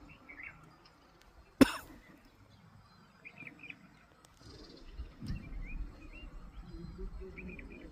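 A small bird's short, faint chirps, repeated in little clusters four times. About a second and a half in comes a single sharp, loud knock, and a low rumble runs through the second half.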